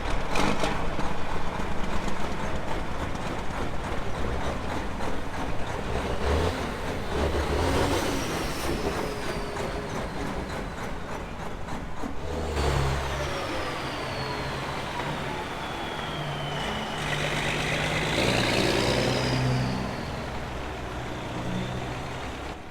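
Diesel semi-truck engines running, with high whistles that slowly fall in pitch a few times.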